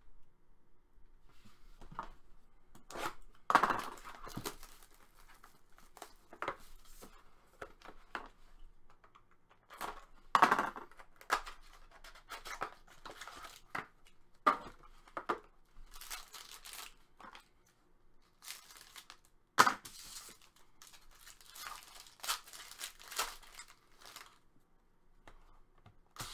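Trading card packs being torn open by hand, with irregular tearing rasps and crinkling of the wrappers; the loudest tears come about 3, 10 and 19 seconds in.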